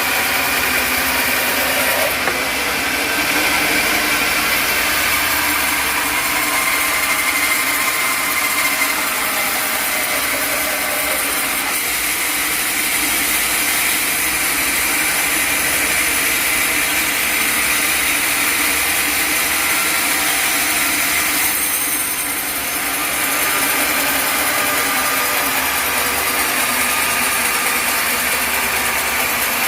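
Engine-driven sawmill running steadily while its saw cuts through acacia wood, a continuous machine sound with a brief drop in level about three quarters of the way through.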